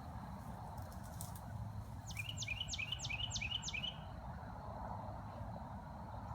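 A bird singing a run of about six quick notes, each sliding down in pitch, lasting about two seconds, over a steady low background rumble.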